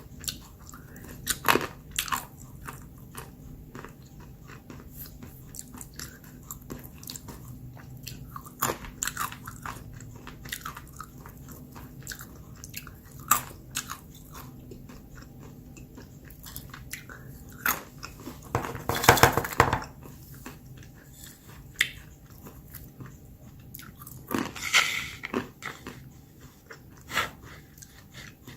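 Almonds being bitten and chewed close to the microphone: sharp crunches and cracks scattered between quieter chewing, with a longer, louder burst of crunching about two-thirds of the way in.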